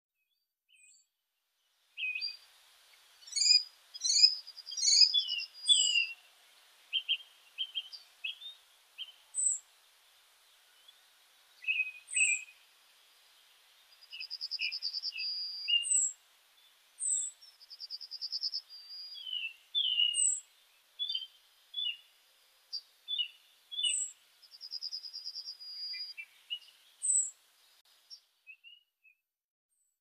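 Birds chirping: a string of short, sharp calls and whistles, with a rapid trill repeated several times, starting about two seconds in.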